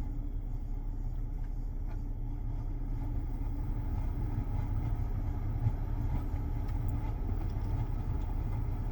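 A van's HVAC blower fan running at full power with a steady low rumble, while barely any air comes through the vents: the blower runs but the airflow fault keeps it from pushing air out.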